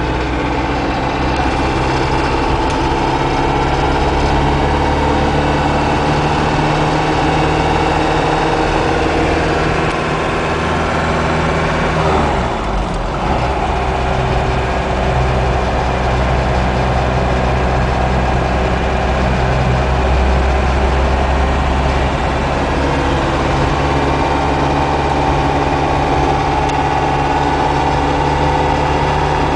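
1986 Isuzu Trooper's turbo-diesel engine running steadily on the move. About twelve seconds in, the engine note drops briefly, then settles into a steady drone again.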